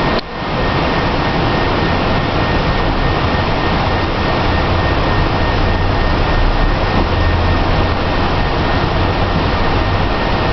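Steady hiss and rumble on a Boeing 767-300 flight deck while the aircraft is under tow, with a low hum that swells about five seconds in and eases near the end. The level dips briefly just after the start.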